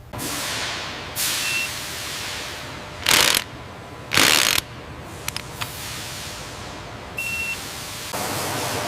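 Assembly-line machinery: a run of short hissing bursts like compressed air being released, the two loudest about a second apart in the middle, with a couple of short high beeps and a few light mechanical clicks. A steadier hiss sets in near the end.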